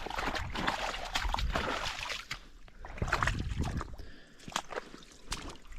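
Water sloshing and gurgling in a drainage ditch, with irregular splashes and knocks.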